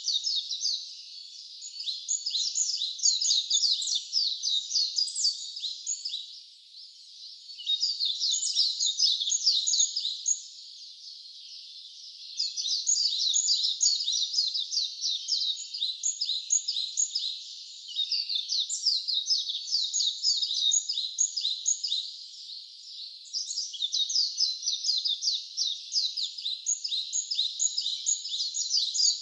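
Wild songbirds singing in long, fast, high-pitched twittering phrases, several seconds each, broken by brief pauses about five times.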